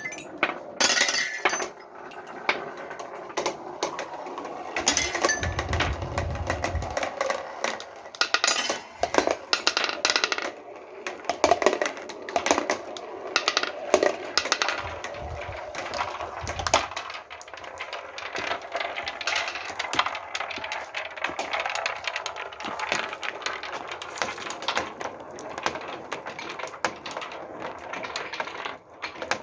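Many marbles rolling down a marble run, clicking and clacking against each other and the track in a dense, continuous rattle, with a low rumble about five to seven seconds in.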